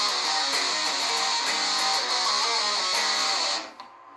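Electric guitar riff played through an amplifier with a grunge distortion pedal engaged, giving a heavily distorted, gain-laden tone. The playing stops about three and a half seconds in.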